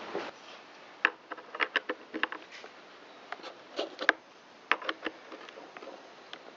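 Light, irregular clicks and knocks of metal and plastic chainsaw parts being handled and fitted together, as the chain brake side cover and bar nuts go onto a Stihl MS193T.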